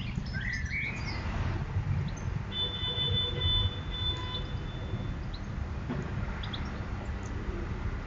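Garden birds chirping, with short rising calls in the first second, a thin high held note for a couple of seconds in the middle and scattered faint chirps after, over a steady low rumble.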